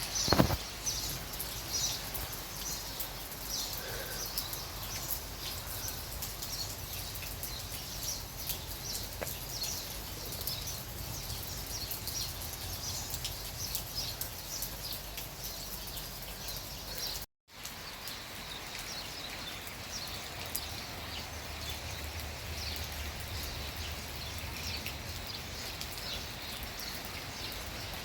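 Small birds chirping repeatedly over a steady outdoor hiss and low rumble. A single sharp knock comes right at the start, and the sound cuts out for a moment about two-thirds of the way through.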